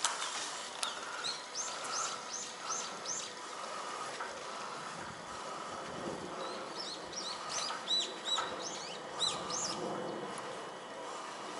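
Small songbird chirping: two runs of quick, high, evenly spaced notes, about six in each, the second run about two-thirds in, over a faint steady hum.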